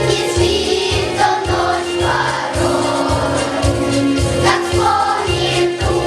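Children's choir singing a song over a backing track with a steady bass beat.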